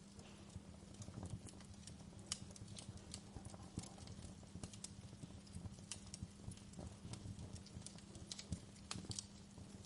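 Wood fire crackling in a fireplace, with irregular sharp pops and snaps over a low rumble of burning, and a steady low hum underneath.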